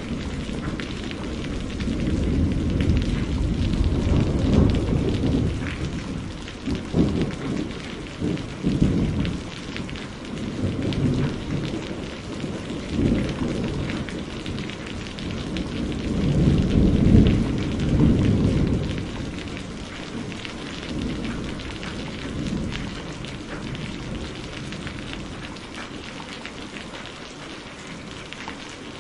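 Steady rain with rolling thunder. Low rumbles swell and fade, with a run of sharper cracks about a quarter of the way in and the loudest peal a little past the middle. Then the thunder dies away, leaving only the rain.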